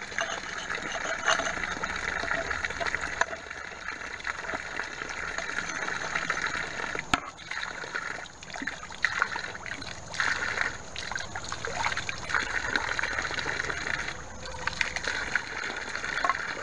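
Water running steadily from the spigot of a free-flowing artesian well, pouring and splattering with an uneven, fluctuating rush. A single sharp click about seven seconds in.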